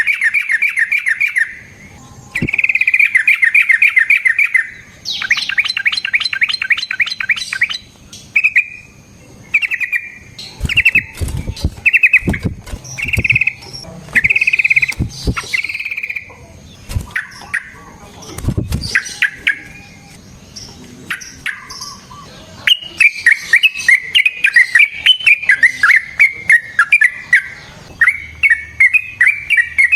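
Yellow-vented bulbul (trucukan) singing: loud phrases of rapid, bubbling chattering notes a few seconds long with short pauses, running into a long unbroken stream of quick notes in the last third. A few low thumps sound in the middle.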